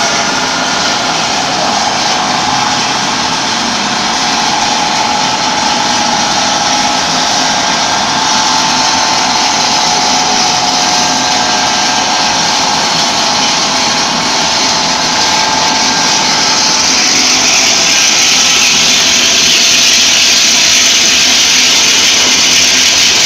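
Aluminum welding wire drawing machine running: a loud, steady mechanical hiss and hum with a steady whine over it. The noise grows louder and brighter about seventeen seconds in.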